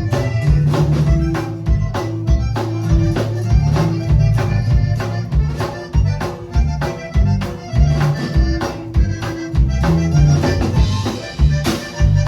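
Band music with an accordion playing the melody over bass and drums keeping a steady beat.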